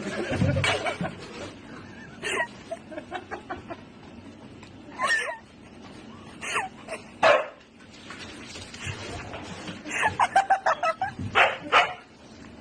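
A dog barking and yipping in short separate calls, then a quick run of yips about ten seconds in.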